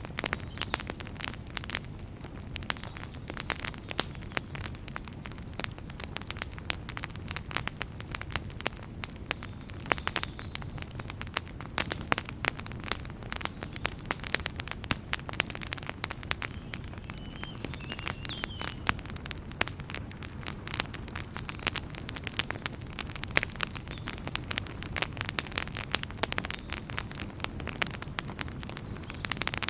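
Wood fire in a fireplace crackling steadily, with many irregular sharp pops and snaps over a low, even rumble of the flames.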